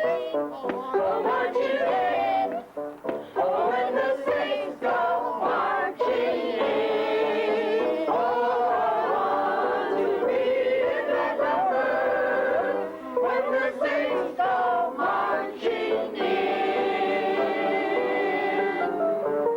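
A choir singing, with several voices together; the last few seconds hold a long sustained chord.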